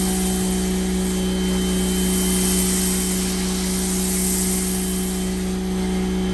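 Pressure washer motor running steadily with a constant hum, with the hiss of water spraying through a foam cannon.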